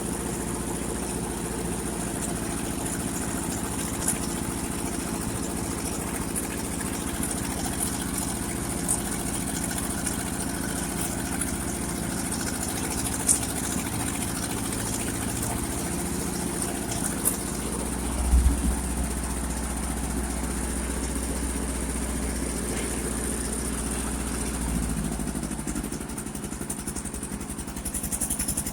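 1958 Ford 851 tractor's four-cylinder engine running steadily at low speed, with a brief louder swell about two-thirds through and the sound dropping a little near the end.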